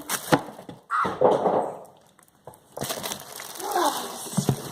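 Packaging being handled during the unboxing of a coffee maker: sharp clicks and crackles, with brief vocal sounds in between.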